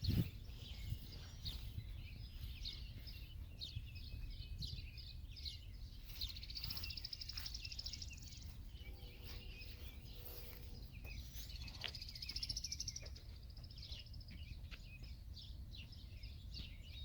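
Outdoor ambience: several birds chirping and trilling on and off, over a steady low rumble.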